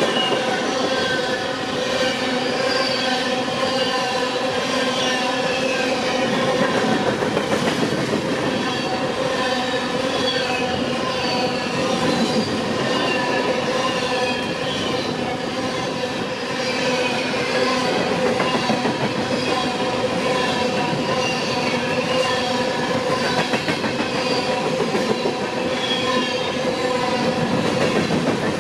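Freight train of empty grain hopper cars rolling steadily past, with wheels clattering and squealing on the rail, a continuous loud rumble with repeated short high squeals.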